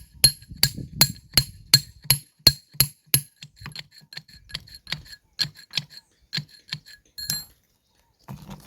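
Hammer striking a steel point chisel against stone: a quick run of ringing metal-on-metal blows about three a second, then lighter, less even strikes that stop about seven seconds in.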